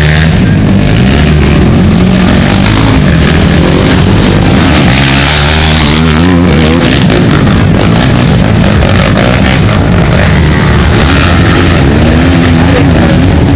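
Racing ATV engines revving hard, their pitch rising and falling as the quads accelerate and shift. The sound is loud throughout, with one machine passing closest about five seconds in.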